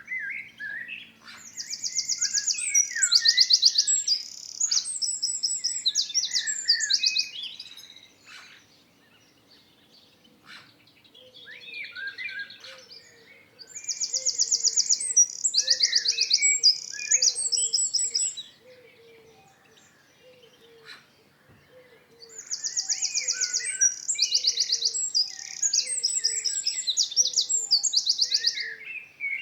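A songbird singing in three bouts of about seven seconds each, separated by short pauses. Each bout mixes fast, high, buzzy trills with lower chirping notes. From about a third of the way in, a faint low call repeats roughly once a second.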